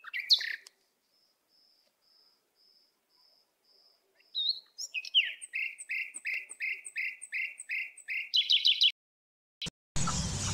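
A bird calling: a few sharp chirps, then a run of about ten evenly spaced whistled notes, two or three a second, ending in a quick rapid flourish. Just before the end, a steady background noise sets in suddenly.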